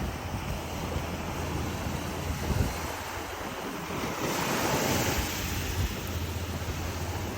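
Surf breaking and washing up the beach, with a louder wash swelling about four seconds in, and wind buffeting the phone's microphone with a low rumble.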